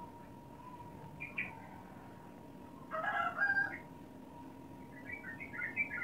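Birds calling: a couple of short high chirps about a second in, a louder call lasting under a second around the middle, and a run of quick chirps near the end, over a faint steady hum.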